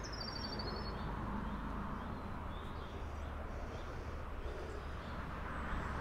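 Outdoor ambience: a small bird's quick run of high chirping notes in the first second, then fainter chirps, over a steady low rumble and hiss.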